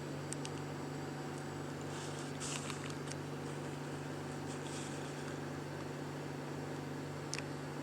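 Steady low mechanical hum, with a few faint short rustles and clicks about two to three seconds in and one sharper click near the end.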